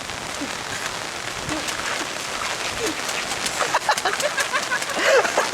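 Steady hiss of rain falling, with scattered drops ticking; a few short faint calls come through the rain about four to five seconds in.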